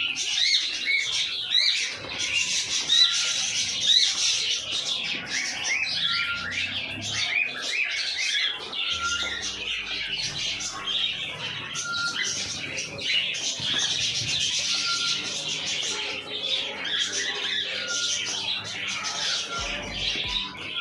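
A flock of aviary birds chirping and squawking continuously, with one short call repeating every second or two. Sustained music comes in underneath about halfway through.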